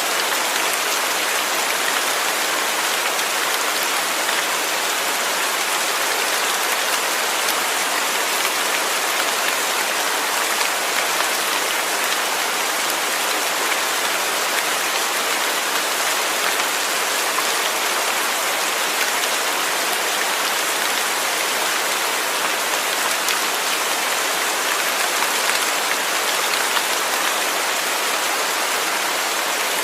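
Steady rain falling, a continuous even hiss of drops on a surface with no pauses or changes.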